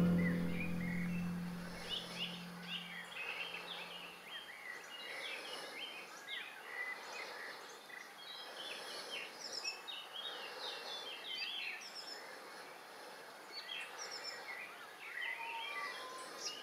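Small birds chirping and singing, many short quick calls overlapping one another. The last low note of the orchestral music fades out over the first few seconds.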